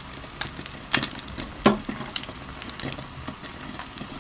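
Egg-soaked bread frying in butter on a griddle pan, a steady sizzle, with a few sharp clinks of metal spatulas on the pan, the loudest about one and a half seconds in with a short ring.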